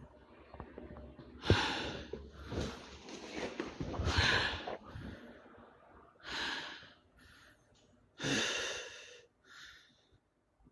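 A man breathing heavily close to the microphone: about six loud, hissy breaths and sighs at irregular intervals of one to two seconds.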